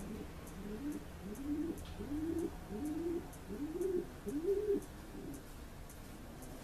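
A bird calling: a series of about eight low, arched cooing notes, rising in pitch and getting louder toward the end, then stopping about five seconds in.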